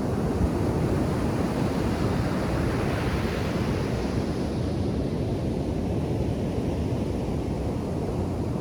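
Ocean surf breaking on a beach: a steady wash of waves, with one wave swelling up about a third of the way in and then washing out.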